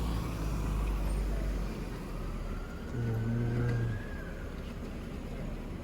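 Street traffic, with a vehicle's low rumble passing in the first two seconds and a brief low pitched tone about three seconds in.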